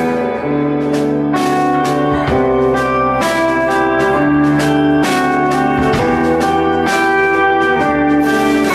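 Live band playing an instrumental passage: sustained, bluesy electric guitar notes over drums, the notes changing about once a second.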